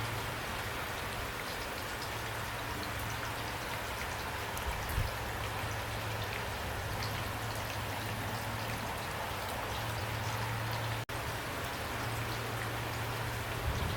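Heavy rain pouring steadily, with individual drops ticking sharply through the even hiss. The sound cuts out for an instant about eleven seconds in.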